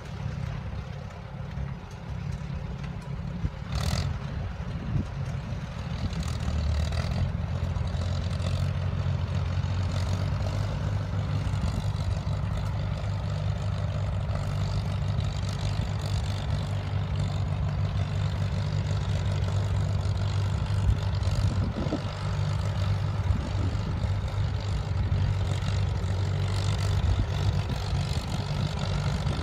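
Farmall tractor's four-cylinder engine running steadily under work, growing louder about six seconds in, with a sharp knock about four seconds in.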